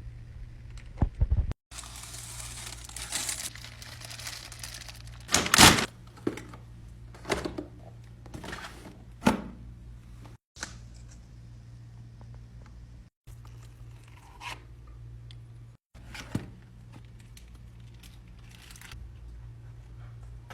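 Paper food packaging rustling, crinkling and tearing as a takeaway meal is handled, with several sharp knocks and thuds among it. A steady low hum runs underneath, and the sound breaks off abruptly a few times at edits.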